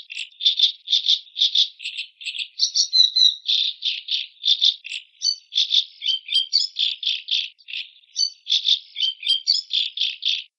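Macaw calling: a rapid series of short harsh rattling notes, about three a second, with thinner chirping notes mixed in a few seconds in and again after the middle; it cuts off suddenly near the end.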